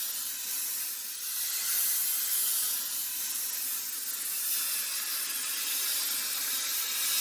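A steady, even hiss with no low rumble under it.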